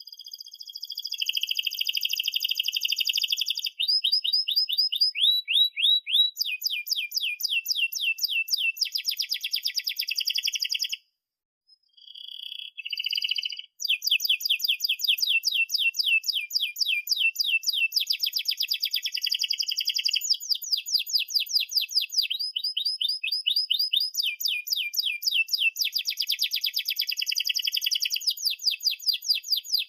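Domestic canary singing a long song of rapid trills and rolls, each phrase a fast run of repeated high notes. The song breaks off for about a second a little over a third of the way in, then carries on.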